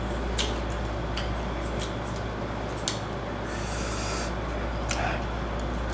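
Scattered small clicks and a brief rustle, typical of handling and eating seafood such as lobster tails, over a steady low hum.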